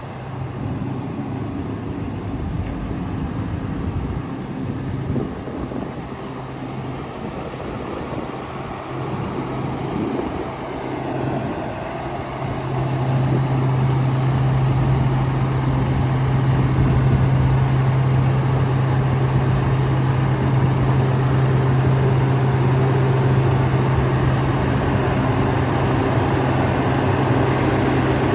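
6.7L Cummins turbo diesel engine of an International MV607 dump truck running steadily. It becomes louder about twelve seconds in and holds at that level.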